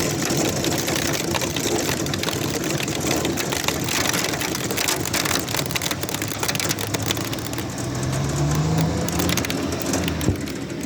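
Heavy rain pouring down in a thunderstorm, a dense steady hiss with the patter of drops. Near the end a low hum rises in pitch for a couple of seconds.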